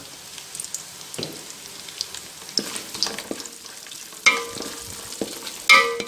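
Diced coconut sizzling in hot coconut oil while a wooden spatula stirs it, scraping and clicking against the metal pan. Twice in the second half the spatula knocks the pan harder, and the pan rings briefly.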